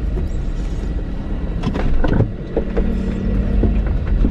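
Car engine running, heard from inside the cabin as a steady low rumble, with a couple of sharp knocks about two seconds in.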